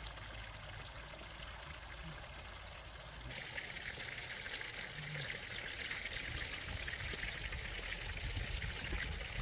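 Water running and splashing steadily; about three seconds in it becomes louder and hissier.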